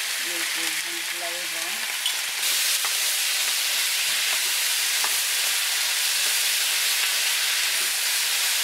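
Vegetables and black beans sizzling in a hot wok as they are stirred. The sizzle is a steady hiss that grows louder about two and a half seconds in.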